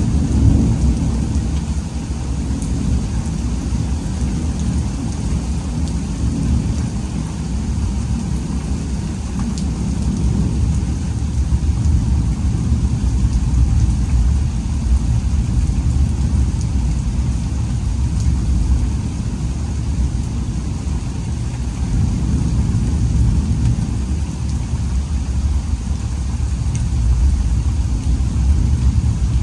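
Thunderstorm: steady rain with a continuous low rumble and a few scattered sharp ticks of drops.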